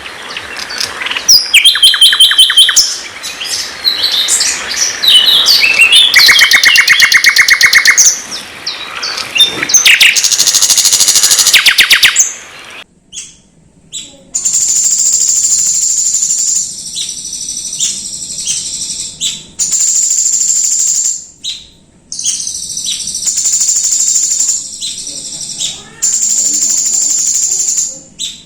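Songbird song recorded for masteran (song tutoring): a loud, fast run of varied whistles, repeated notes and rapid trills. After an abrupt cut about halfway through, a high, steady buzzing trill follows, repeated in bursts of about two seconds with short gaps between.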